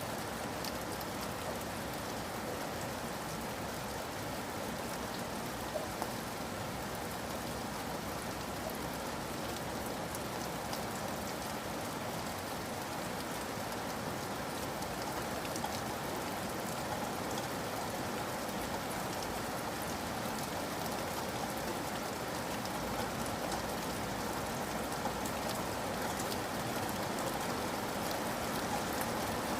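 Steady rain falling, an even dense patter of drops with no let-up.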